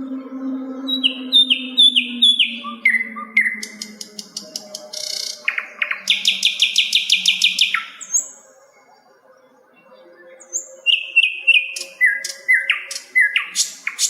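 A sikatan (flycatcher) sings a run of short, quick down-slurred whistles. Midway it breaks into a rapid buzzy trill, pauses briefly, then returns with more down-slurred notes and fast clicking chatter near the end.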